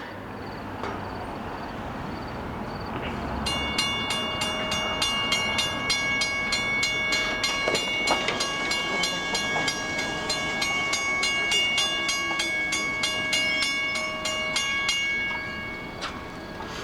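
Railroad crossing bell ringing in rapid, even strokes, starting a few seconds in and stopping shortly before the end, over the steady rumble of a train.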